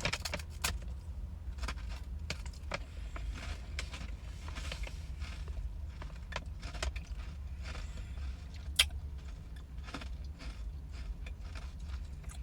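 Crisp brownie brittle being chewed, a scatter of small crunches and clicks with one sharper crack near the end, over a steady low hum.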